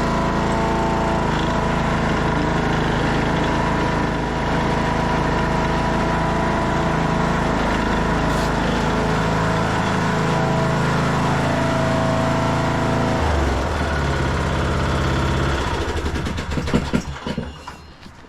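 Craftsman T1600 lawn tractor engine running steadily with the mower blades engaged. Its note steps down twice, about ten and thirteen seconds in, then it runs down and stops about sixteen seconds in, followed by a few sharp knocks and clatters.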